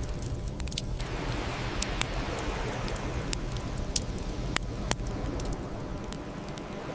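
Bonfire crackling: irregular sharp pops and snaps, a few of them louder, over a steady low rush of burning.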